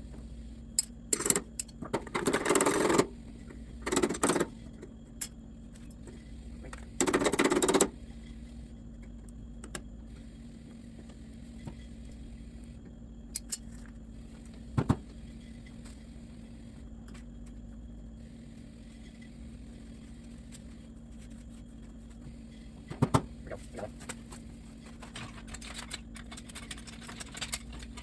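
Metal clinks and short scraping bursts of hand-tool work on the tractor, over a steady hum. There are three longer bursts in the first eight seconds, then scattered clicks.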